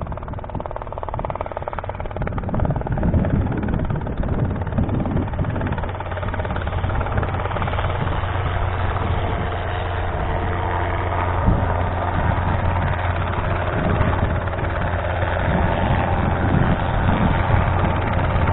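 Robinson R22 helicopter running: its piston engine and two-blade rotor give a steady low drone, growing slightly louder toward the end.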